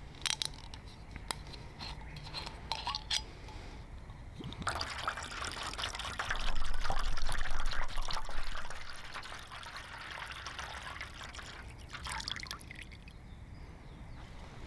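Liquid poured into a container for about four seconds, starting about five seconds in and loudest near the middle, with a few light clicks and knocks before it.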